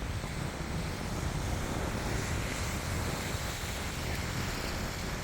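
Wind buffeting the microphone in a steady rumble, over the wash of surf on the beach.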